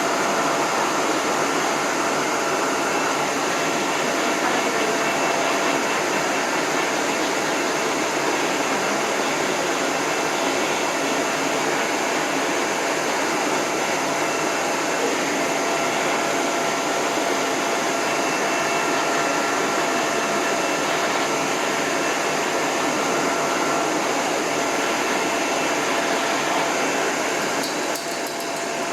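Dog grooming hose dryer running steadily with its end nozzle off: a constant rush of air over a motor whine. It dips slightly near the end.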